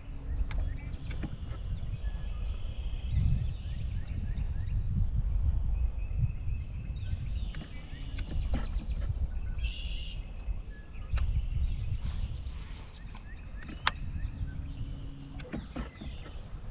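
Wind buffeting the microphone in gusts, with birds chirping and singing, and a few sharp clicks now and then.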